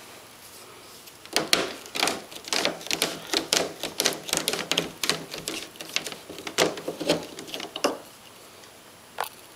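PVC pipe pieces of a homemade ramp clicking and knocking against each other in quick, uneven taps, several a second, for about six seconds, then one more click near the end.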